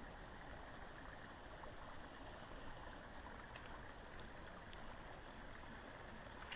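Faint, steady rush of creek water running over rocks.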